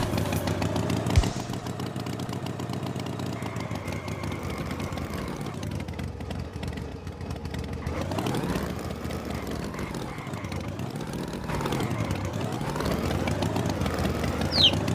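A cartoon tractor's engine runs steadily. About halfway through its pitch starts swinging up and down several times, like repeated revving.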